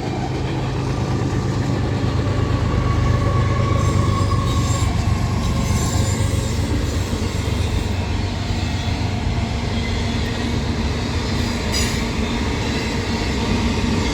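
Freight train rolling past, a steady rumble of wheels on rails, with a faint high wheel squeal a few seconds in.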